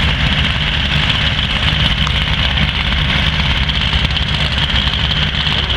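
Cockshutt 570 tractor's engine running steadily with a deep, even beat, holding a constant speed with no revving.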